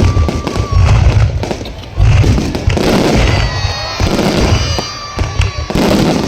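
Aerial fireworks show: shells bursting in repeated deep booms, with sharp crackling between them and a few thin whistling tones.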